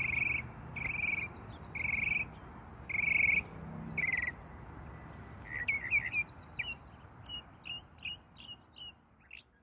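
Birds calling. Five short trilled notes come about once a second, then a quicker run of chirps fades out near the end, over a steady background hiss.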